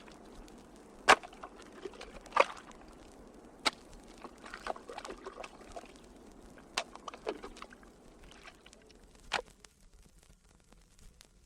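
A series of sharp cracks and knocks, five loud ones spaced one to three seconds apart, with fainter scraping and clicking between them. It dies away over the last couple of seconds.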